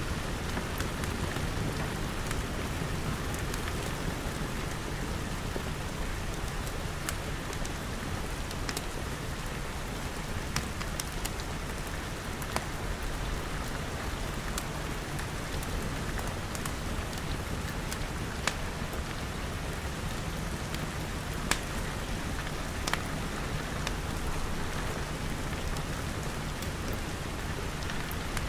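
Steady rain pattering on glass, with scattered sharp crackles and pops of a wood fire.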